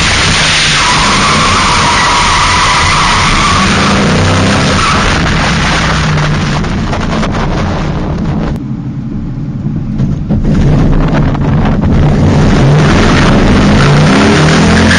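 2000 Ford Mustang drift car running at high revs with its tyres squealing and skidding through a slide. About eight and a half seconds in, the tyre noise drops away and the sound dips for a second or so, then the engine revs back up and the tyres squeal again.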